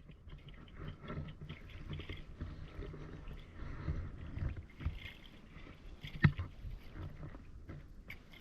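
Shallow muddy water sloshing and splashing in irregular bursts, with one sharper splash or knock about six seconds in.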